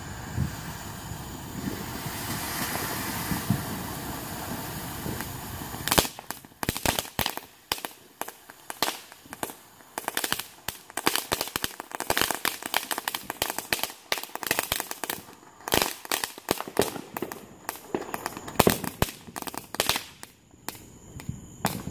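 Consumer fireworks going off. A steady hiss runs for about six seconds, then a long run of rapid, sharp pops and cracks, like a firecracker string, goes on for about fourteen seconds and stops shortly before the end.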